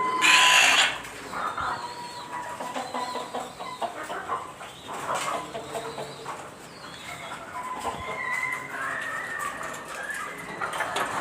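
Dong Tao (Vietnamese 'dragon') chickens clucking, with a brief loud burst of noise right at the start.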